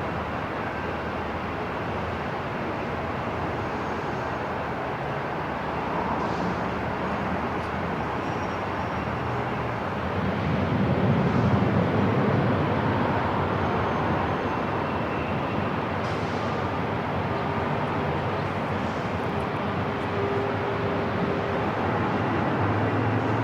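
Airport ambience: a steady low rushing hum, like distant aircraft and terminal machinery, that swells for a few seconds about ten seconds in.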